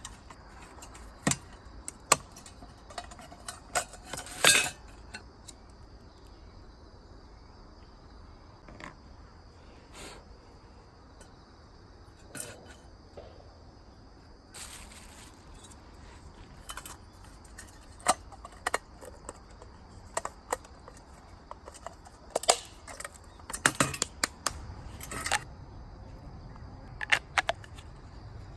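Irregular clinks, clicks and knocks of camping gear being handled, over a steady high trill of insects.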